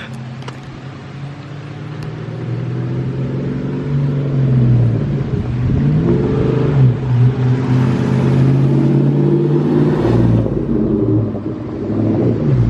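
Manual-transmission Ford Mustang driving up and getting louder as it approaches, its engine note rising and falling several times as it is driven in low gear by an inexperienced driver.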